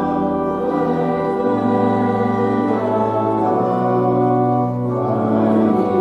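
Slow organ music: held chords with a steady bass note that shifts to a new pitch every second or two.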